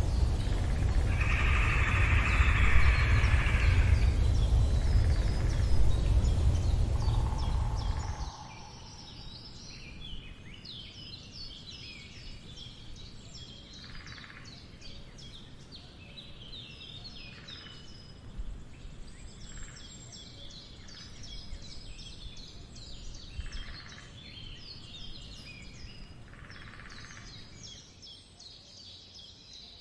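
A loud low rumble fills roughly the first eight seconds, then cuts off suddenly to a quieter bird chorus of many small birds chirping and twittering, with several short noisy bursts scattered through it.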